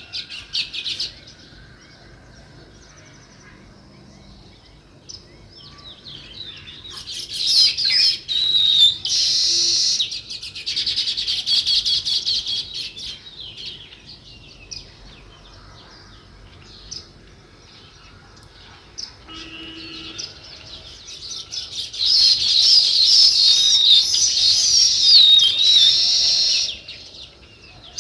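A group of small songbirds chirping. Two loud bouts of dense overlapping chatter come about a quarter of the way in and near the end, with sparse, softer calls in between.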